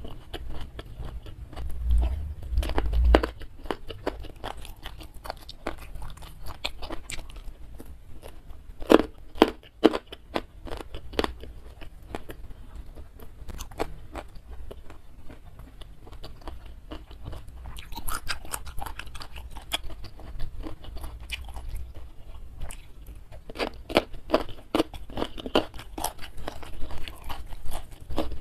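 Close-miked mukbang eating: a person chewing and crunching food with sambal, with many wet mouth clicks and smacks in irregular clusters.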